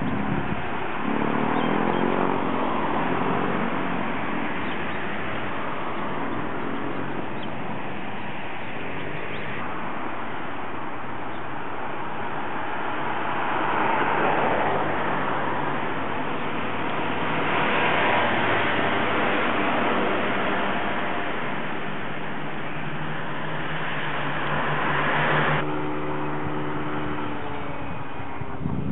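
Road traffic noise: motor vehicles passing and engines running, swelling louder several times, with a steady engine hum near the end.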